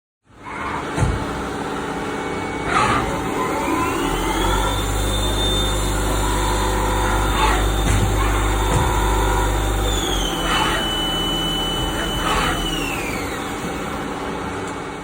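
2011 Haas ST-20 CNC lathe running with a steady machine hum and a few sharp clicks. About three seconds in, a spindle whine rises in pitch and holds. Near 10 seconds it steps down, then it falls away near the end as the spindle slows.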